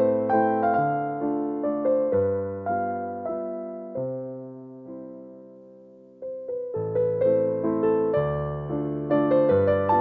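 Light classical piano music: gentle melody and chords, a held chord fading away around the middle before the playing picks up again.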